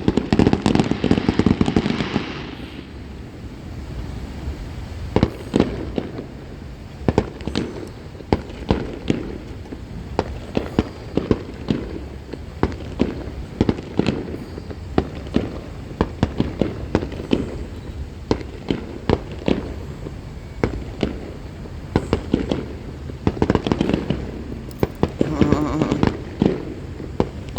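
Fireworks going off: many sharp bangs in quick, irregular succession, densest near the start and again near the end.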